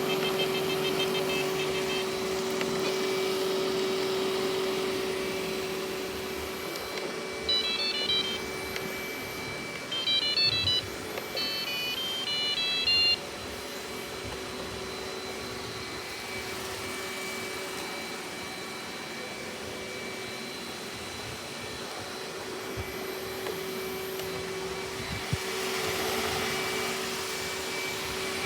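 Robot vacuum cleaner running with a steady motor hum and whine, its level sinking a little and rising again. Midway, three short runs of stepped electronic beeps sound about two seconds apart.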